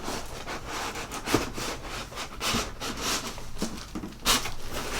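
Cardboard and plastic packaging rustling and scraping as a box is unpacked by hand. There is a sharp knock about a second in and a louder scrape near the end.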